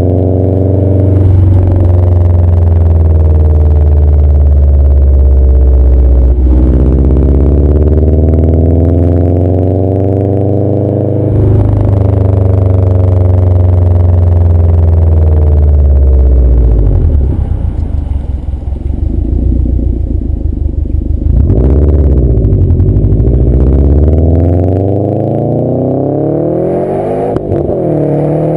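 2011 Subaru WRX's turbocharged flat-four running through a CNT cat-back exhaust while driving. The revs climb steadily and drop sharply at gear changes about six and eleven seconds in, then fall away as it slows. A couple of brief rises follow, and it climbs again near the end.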